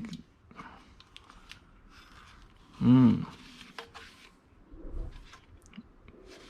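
Light clicks, taps and rustles of scrap hardware being handled and turned over, with one short pitched sound about three seconds in that rises and falls, the loudest thing.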